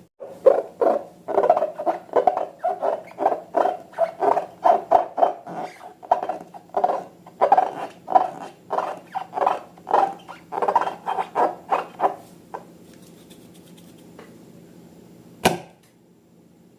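Slime being squeezed and kneaded by hand: a rapid run of wet squelches, about three a second, that stops about twelve seconds in. A single sharp click follows near the end.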